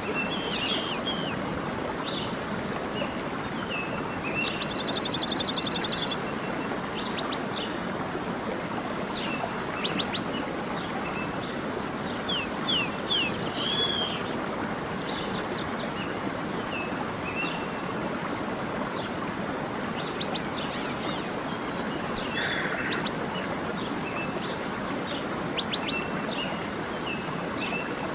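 A creek running steadily, with many songbirds chirping and trilling over it, including a rapid trill about five seconds in and a louder looping call about halfway through.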